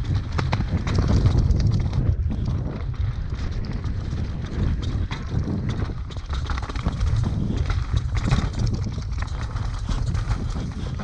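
Downhill mountain bike rattling and clattering over a rough trail, with a heavy wind rumble on the microphone.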